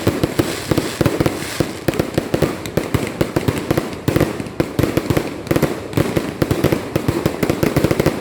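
Fireworks going off in a dense, rapid barrage of bangs and crackles, many per second without a break.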